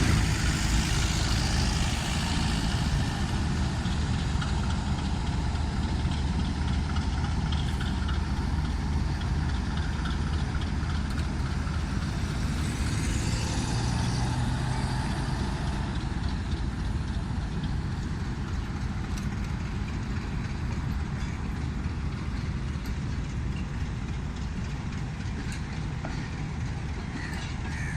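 Diesel locomotive engine running with a steady low drone as the train departs, slowly getting quieter.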